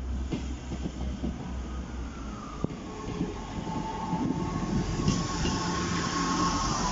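Class 158 diesel multiple unit approaching and running over a level crossing: its engine rumbles and its wheels clack over the rail joints, growing louder from about halfway in as the train reaches the crossing. A thin, steady, high squeal sits above it, dipping slightly in pitch early on.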